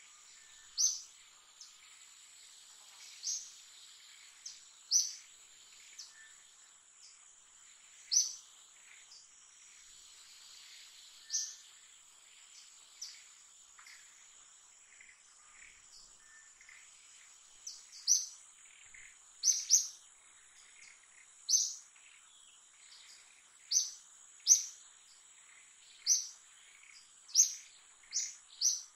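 A bird chirping: short, sharp, high chirps at irregular intervals, coming more often in the second half. Under them runs a steady, high-pitched insect drone.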